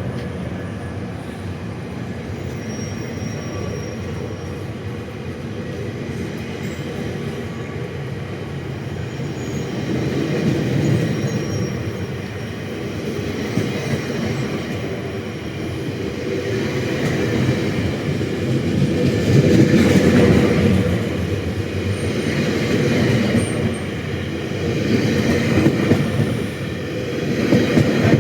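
Passenger coaches of a departing GO Transit train rolling past, steel wheels rumbling on the rails with some clickety-clack and faint wheel squeal. The sound swells louder about two-thirds of the way through.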